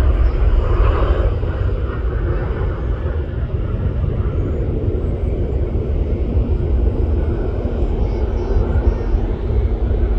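Jet airliner engine noise, a steady heavy rumble strongest in the low end, with a faint steady hum running underneath.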